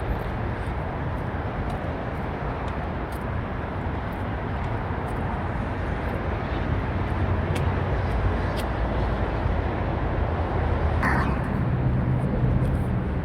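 Steady outdoor rumble of vehicle and traffic noise, with a short falling squeal near the end.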